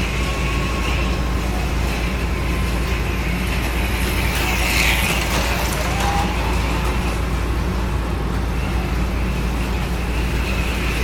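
HO-scale slot cars' small electric motors whirring around the track, the whine swelling about every five seconds as a car passes close by, over a steady low hum and rumble.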